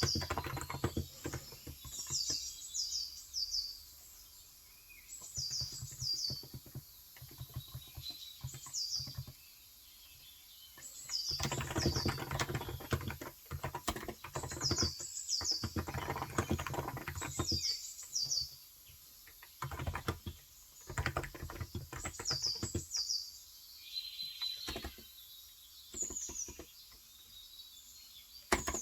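Typing on a Cox Endeavour electro-capacitive tenkeyless keyboard with 35 g switches, key presses coming in bursts with short pauses. A bird repeats quick, high chirps in runs of two to four.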